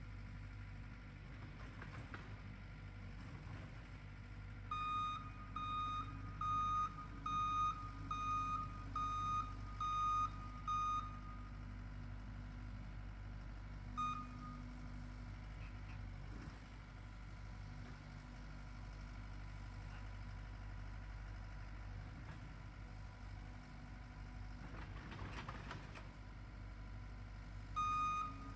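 Engine of the machine working the power rake running steadily, with its reversing alarm beeping at a regular pace of a little more than one beep a second while it backs up: a run of beeps from about five to eleven seconds in, a single beep a few seconds later, and the beeping again near the end.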